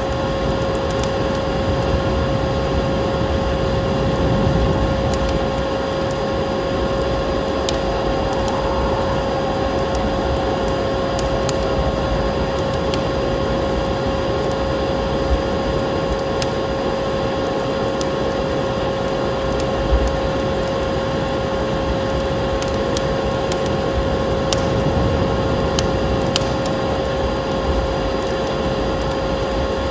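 Wood fire crackling with scattered sharp pops, over a steady, noisy drone that carries a constant hum.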